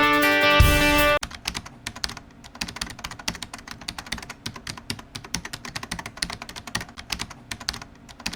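Guitar-led music ends abruptly about a second in. Rapid keyboard typing follows: many fast, uneven key clicks that run on to the end.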